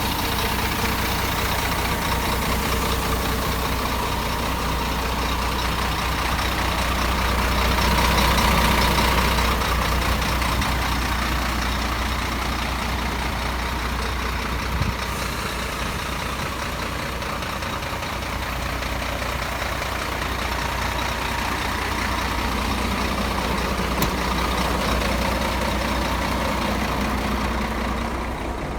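Scania G420 truck's diesel engine idling steadily, swelling briefly in loudness about eight seconds in, with a single short knock around the middle.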